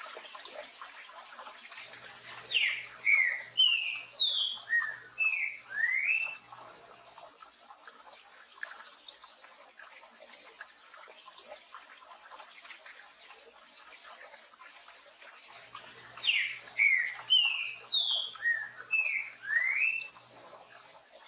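Green-winged saltator (trinca-ferro) singing two phrases of its 'tio joão pedro boi' song, each a run of about eight slurred whistled notes, roughly ten seconds apart, over a steady hiss of rain.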